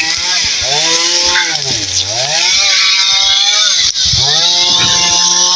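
Chainsaw running at high revs while cutting wood, its engine pitch dipping sharply about two seconds in and briefly near four seconds before climbing back.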